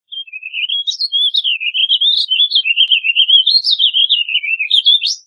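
Warbling vireo singing: one long, fast, rambling warble of notes that wavers up and down, ending on a sharp rising note.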